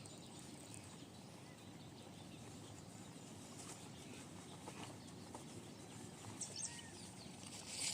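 Faint outdoor rural ambience, a steady low hiss, with a few faint bird chirps near the end.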